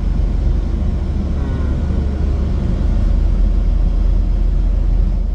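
Strong storm wind buffeting the microphone: a loud, steady low rumble of wind noise.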